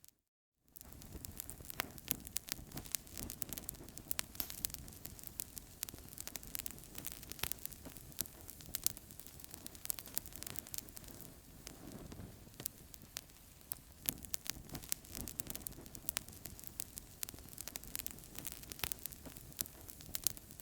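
Wood fire crackling in a fireplace: frequent, irregular sharp pops and snaps over a steady low hiss of the flames. The sound drops out completely for a moment just at the start.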